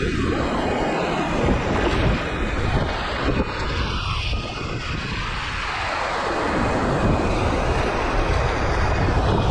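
Steady rush of a fast-flowing mountain creek, with wind buffeting the microphone.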